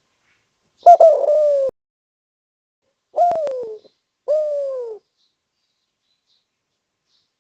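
Spotted dove (derkuku/tekukur) cooing: three separate coos, each sliding down in pitch, the first one about a second in and a little longer than the other two.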